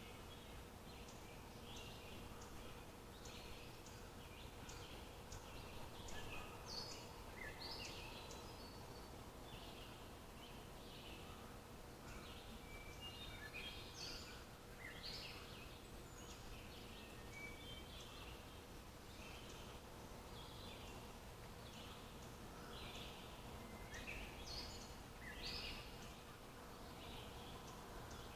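Several birds chirping and singing in short, high calls scattered throughout, faint, over a steady low background hum.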